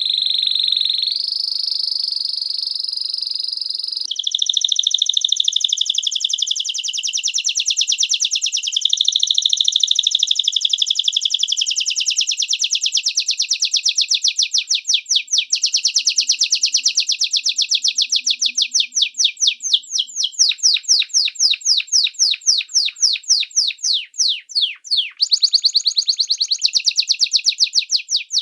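Small songbird singing a long, unbroken trilled song. A held high whistle for the first few seconds gives way to a fast run of rapidly repeated high notes, which turn choppier with brief breaks toward the end.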